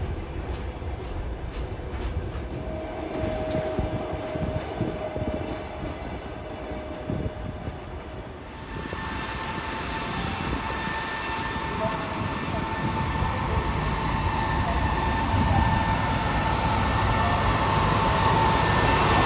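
Passenger coaches rolling past a station platform as a train pulls out, with a low rumble and wheel knocks. About eight seconds in, an ЭП20 dual-voltage electric locomotive hauling a train approaches, its steady high electric whine and rolling noise growing louder as it nears.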